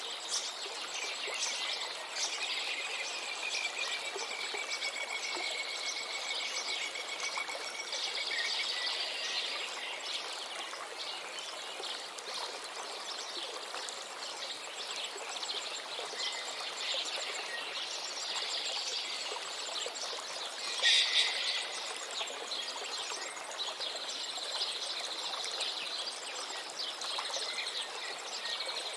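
A river flowing steadily under a chorus of songbirds chirping and calling. One bird gives a long, slowly falling whistle early on, and a louder burst of calls comes about two-thirds of the way through.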